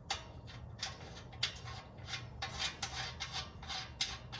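A run of short, irregular scrapes and rubs from hand work on exhaust parts, metal and rubber being handled under the car.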